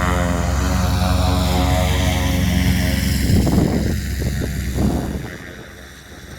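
Dimona motor glider's propeller engine at take-off power, its steady drone falling slightly in pitch as the aircraft passes and moves away. Gusts of wind hit the microphone about three and a half seconds in, and the engine fades over the last second or so.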